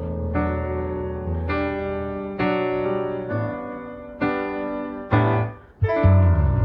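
Solo piano accompaniment of a K-pop ballad, separated out of the full song, playing slow sustained chords struck about once a second. Near the end it dips briefly, then a louder chord with a deep bass comes in.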